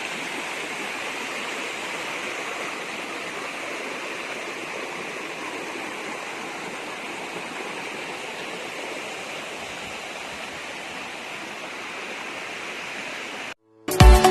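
Steady rushing of flowing water, an even hiss that cuts off suddenly near the end. Loud music starts just after.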